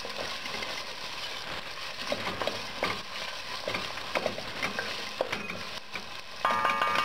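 Onion, garlic and yellow ají paste sizzling as they fry slowly in a stainless steel pot, a wooden spoon stirring and scraping through the mixture. A short ringing sound comes near the end.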